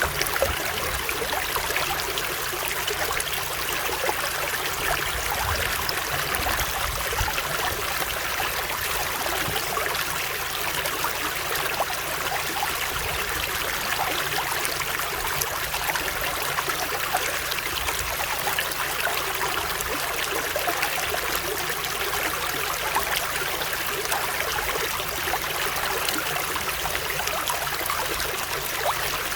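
Running water of a stream flowing over stones, a steady babbling and trickling without pause.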